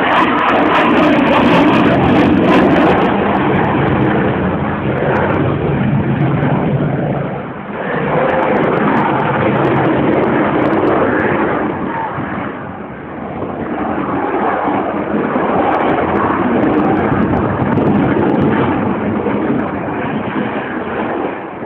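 Eurofighter Typhoon's twin EJ200 jet engines, loud and continuous during a display flight, dipping briefly twice.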